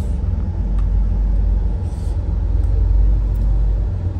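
Steady low rumble of a moving passenger train heard from inside the coach, with a couple of faint clicks.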